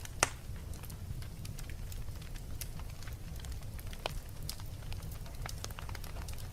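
Wood fire crackling in a fireplace: scattered sharp pops and snaps over a low steady rumble. One loud pop comes right at the start and another about four seconds in.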